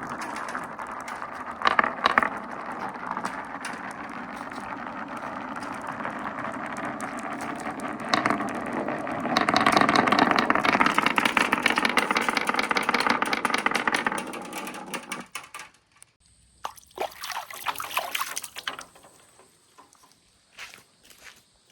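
Glass marbles rolling down a marble-run track, a continuous rattling rumble that grows louder about halfway through and stops about three quarters of the way in, followed by scattered clicks of marbles knocking together as they come to rest.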